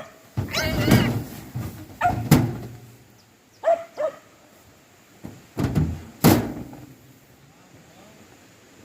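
A dog barking, a handful of separate barks in the first several seconds, mixed with a couple of knocks; it quietens near the end.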